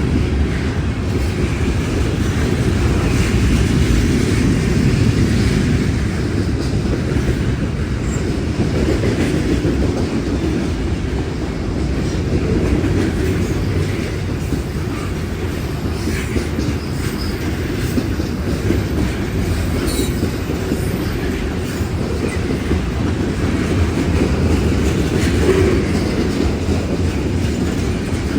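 A train's railroad cars rolling past on the track, a steady heavy rumble of wheels on rail that holds throughout.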